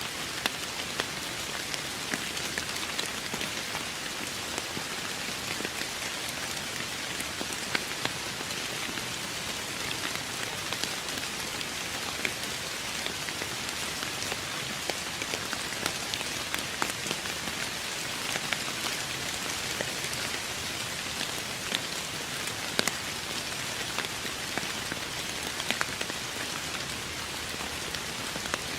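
Steady rain: an even hiss of rainfall with scattered sharper ticks of single drops striking.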